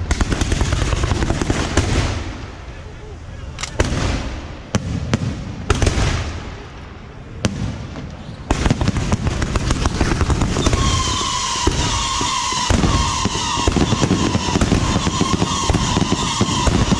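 Barrage of bottle rockets and firecrackers from a Yanshui 'beehive' rocket launcher: dense crackling, thinning to a few separate sharp bangs a few seconds in, then picking up again as a continuous rapid crackle. About two-thirds of the way through, a steady high whistle sounds over the crackle.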